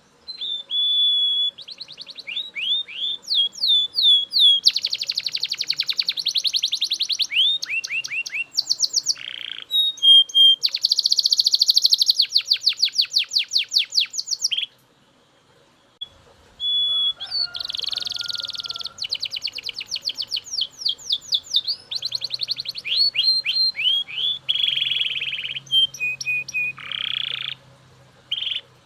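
Belgian canary singing: long phrases of fast trills and rolling repeated notes, broken once by a pause of about a second and a half midway.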